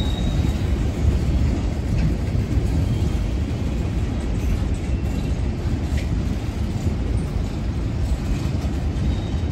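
CSX freight cars rolling past on elevated track: a steady low rumble of wheels on rail, with a couple of sharp clicks and faint brief high-pitched wheel squeals.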